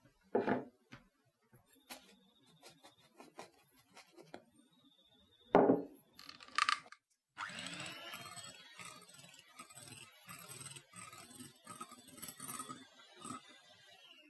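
A whisk beating egg whites into meringue in a bowl: a continuous rhythmic scraping of quick strokes that starts about seven seconds in, after a few scattered knocks and clicks as the sugar goes in.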